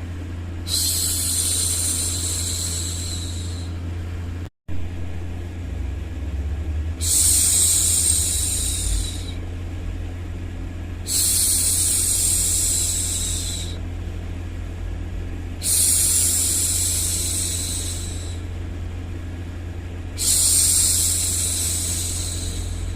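A woman's voice shushing, 'shhh', five long hushes about every four and a half seconds, over a steady low rumbling white-noise bed. The sound cuts out completely for a split second about four and a half seconds in.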